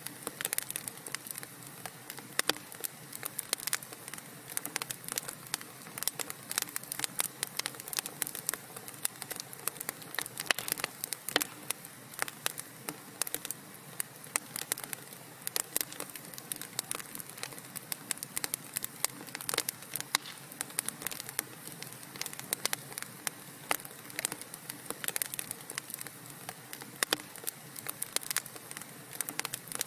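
Wood fire crackling in a fireplace: dense, irregular pops and snaps over a steady hiss of burning.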